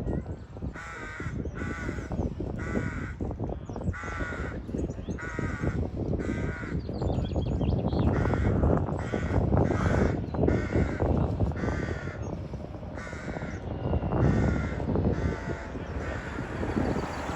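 Crows cawing over and over, about fifteen short harsh caws spaced unevenly, over a low steady rumble.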